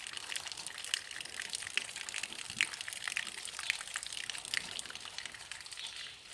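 Rain falling, with many short, irregular drop hits over a steady hiss.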